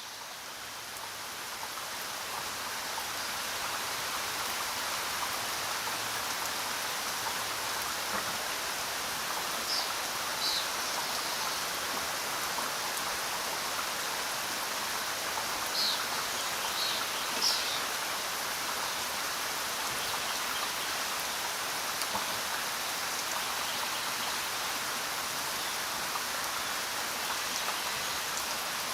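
Steady rain falling, fading in over the first few seconds and then holding even. A few brief high-pitched sounds come through about ten seconds in and again around sixteen to eighteen seconds.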